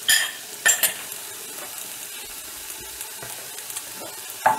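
Hot wok of fried rice sizzling steadily as beaten egg is poured into a well in the rice, with two sharp clinks of a utensil scraping out the glass bowl in the first second and another knock near the end.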